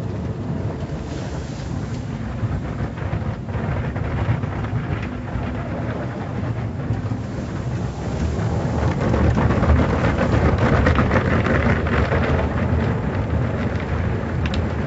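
Car wash spraying water and running its brushes over a car: a steady low rumble and rush that gets louder about eight seconds in.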